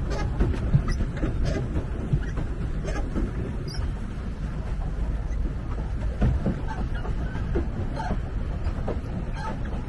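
Pedal boat's pedal drive creaking and squeaking as it is pedalled, in short chirps over a steady rumble of wind and water; the unoiled drive is dry, giving the squeak the riders call a Halloween sound.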